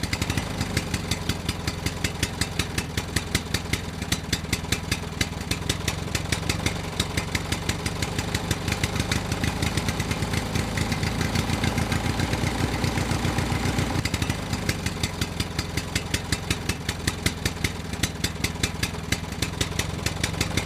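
Mini tractor's small engine running steadily, with an even, fast putt-putt firing beat.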